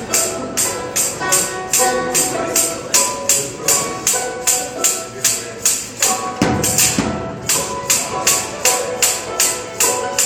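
Live band music with a steady, bright percussion beat of about three strokes a second over held melodic notes.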